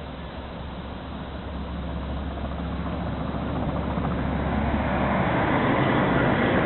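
LNER Peppercorn A1 class Pacific steam locomotive 60163 Tornado approaching, its noise growing steadily louder.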